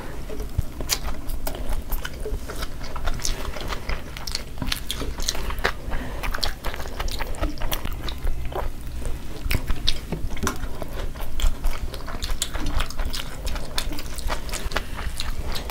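Two people eating fried noodles by hand close to the microphone: chewing, with many short, irregular wet mouth clicks and smacks.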